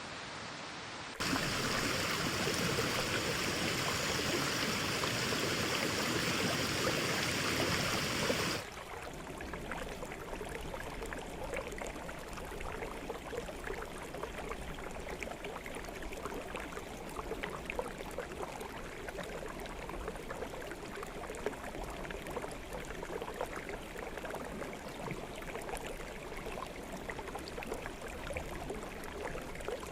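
Forest stream water flowing. A louder, even rushing stretch cuts off abruptly about eight seconds in, giving way to a softer babbling flow full of small splashes and trickles.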